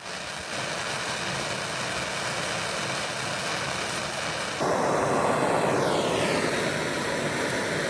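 Blowtorch flame hissing steadily as it heats the fuel tank to flow silver solder into the pinholes; it gets louder about four and a half seconds in, and a faint falling tone is heard around six seconds in.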